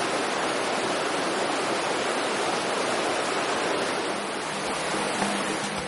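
Steady rushing noise of water, a dense even hiss. Music fades in faintly near the end.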